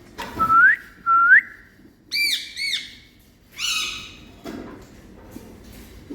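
Indian ringneck parrot whistling and calling: two quick rising whistles, then two short arched calls, then a harsher squawk.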